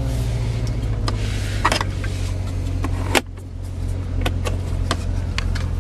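Corvette Z06's LT4 supercharged 6.2-litre V8 idling steadily, heard from inside the cabin, with a series of sharp clicks from switches and buttons; the loudest click comes about three seconds in.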